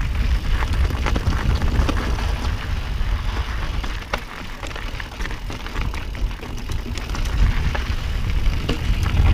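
Mountain bike rolling along a dirt and gravel singletrack: tyre noise on the loose surface, with frequent small clicks and rattles from stones and the bike. A low rumble of wind on the microphone runs underneath.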